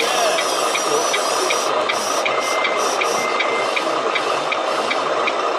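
Steady, dense background din of a busy model-truck meet. A high electronic beep repeats about three times a second throughout, and a thin high whine rises and wavers for the first second and a half.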